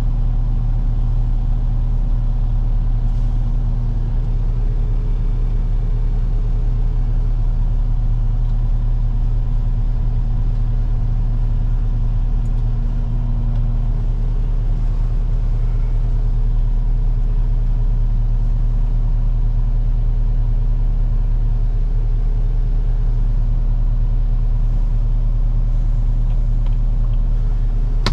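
Heavy truck's diesel engine running steadily, a constant low drone with no change in speed.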